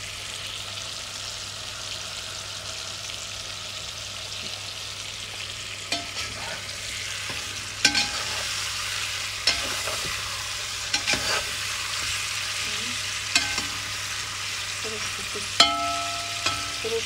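Meat and carrot strips sizzling in oil in a cast-iron kazan as the base for plov is fried. From about six seconds in, a metal skimmer scrapes and clinks against the pot as the food is stirred.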